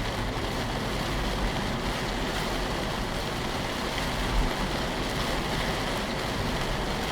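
Steady rush of heavy rain and tyres on a wet road, heard inside a moving car's cabin, over a low rumble.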